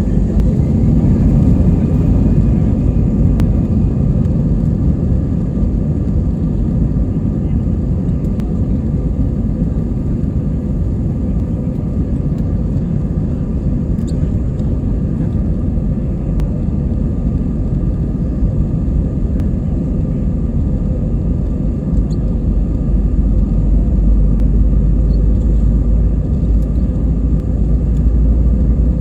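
Airbus A320 taking off, heard from inside the cabin: the jet engines spool up to takeoff thrust in the first second or two, then a loud steady rumble with a steady whine over it. The deepest rumble swells in the last several seconds.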